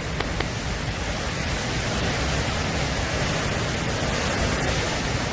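Steady rushing noise of tropical-storm wind and heavy rain.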